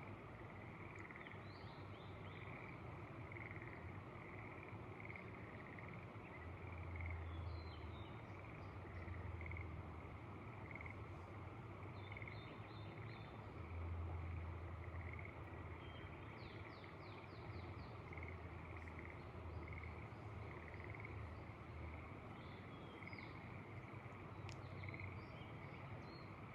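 A frog chorus, with frogs calling over and over without pause, while a bird gives short series of chirps now and then. Gusts of wind rumble on the microphone a few times.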